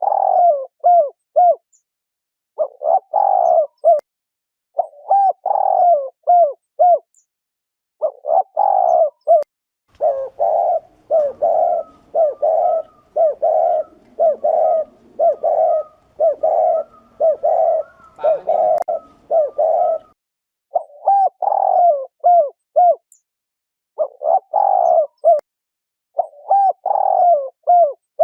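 Spotted dove giving its bow-coo ('gù'), the call used to rouse male doves: short phrases of low hooting coos repeated with brief pauses, running into an unbroken string of coos from about ten to twenty seconds in.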